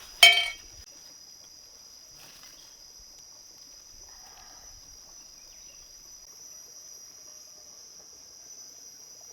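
Steady high-pitched insect chorus, with one short, loud pitched cry about a quarter of a second in.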